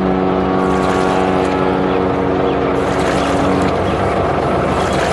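Animated riverboat sound effect: a steady pitched drone from the barge, which stops about two-thirds of the way in, over a continuous rushing of engine and water noise.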